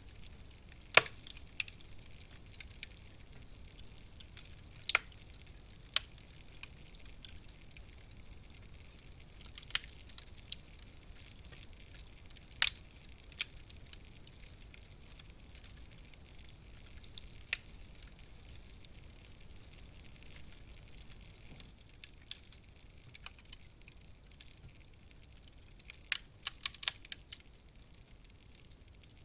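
Wood fire in a fireplace crackling: sharp single pops every few seconds over a soft hiss, with a quick run of pops near the end.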